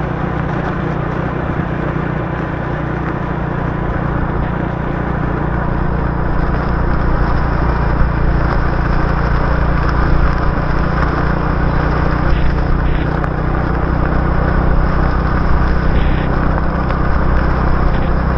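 Motorbike engine running steadily while riding, under a continuous hiss of wind and tyres on the wet road. It gets a little louder about six seconds in.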